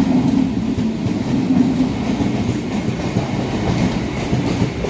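Suburban electric local train running on the rails: a loud, steady rumble.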